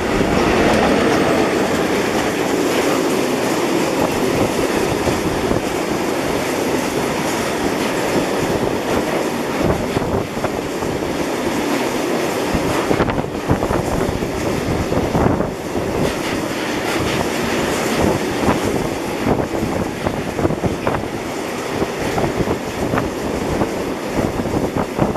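Freight train of tank wagons rolling past, a steady rumble of wheels on rail with repeated clicks of the wheels over the rail joints.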